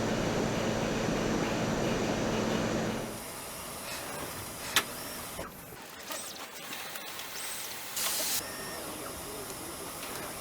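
Steady machine hum that stops abruptly about three seconds in. Quieter background noise follows, with one sharp click and a short burst of air hiss.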